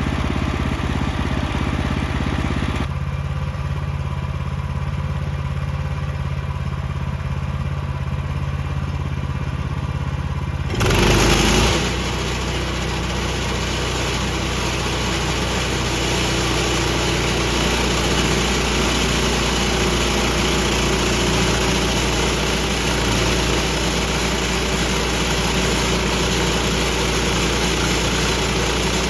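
Gas engine of a portable band sawmill running steadily. About eleven seconds in there is a brief louder burst, and the sound turns fuller and noisier from there on.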